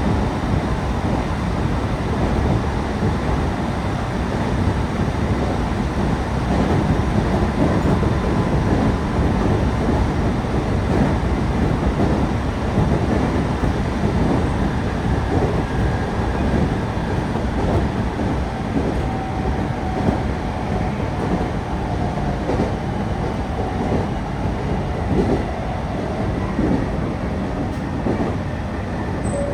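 Local passenger train running along the line, heard from inside the car: a steady rumble of wheels on rail with irregular clicks over the rail joints.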